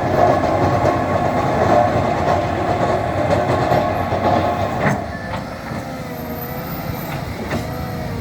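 Tractor shovel loader working, a dense clattering rumble of engine and machinery, with a sharp knock about five seconds in, after which it eases to a quieter run with a wavering tone.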